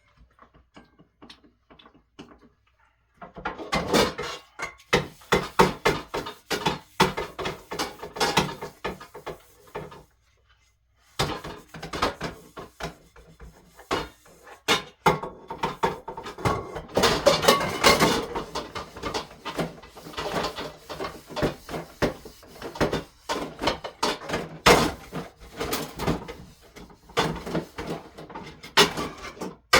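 Dishes and pots knocking and clattering together while being washed by hand at a kitchen sink, with a steady stream of small knocks and scrapes. It starts after a few near-quiet seconds and pauses briefly midway.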